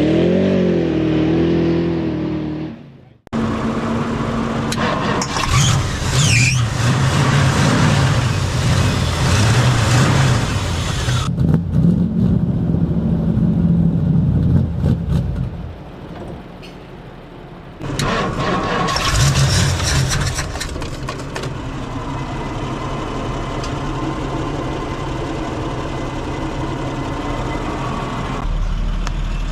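A 1962 Ford Galaxie's V8 engine running and revving, in several short clips cut together. One cut comes abruptly about three seconds in.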